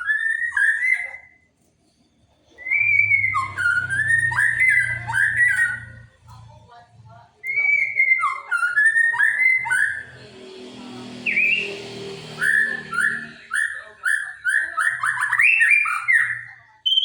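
White-rumped shama (murai batu) singing in four bursts of rapid, varied whistled phrases with short pauses between them, a song used as a lure to make other shamas answer.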